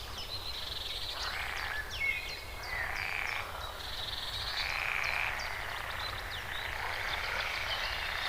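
A natural chorus of small animal calls: many overlapping short, high chirps and rapid trills, with harsher calls rising and falling beneath them.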